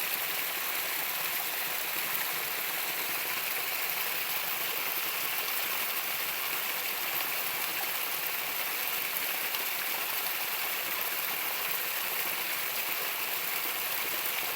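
Steady rushing of flowing stream water, an even hiss with no breaks or single events.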